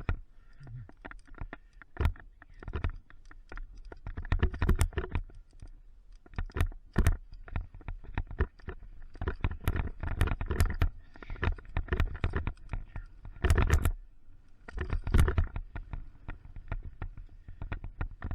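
Mountain bike rattling and clattering as it is ridden fast down a rough trail, with irregular knocks from bumps and landings over a constant low rumble. The clatter gets louder in bursts at several points.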